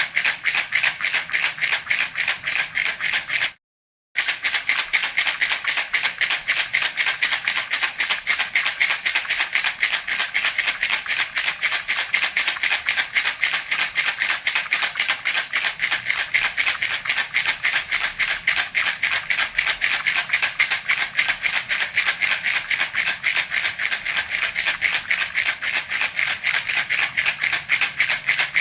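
A baby's jhunjhuna rattle shaken rapidly and evenly, a continuous bright rattle of many strokes a second. It cuts out completely for about half a second a few seconds in.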